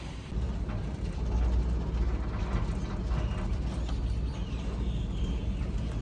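Steady mechanical rumble with a clattering, clicking texture, like a vehicle or machinery running.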